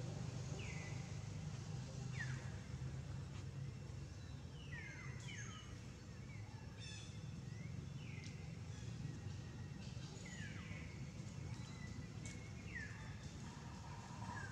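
Birds calling: repeated short down-slurred whistles, one every second or so, over a steady low outdoor rumble.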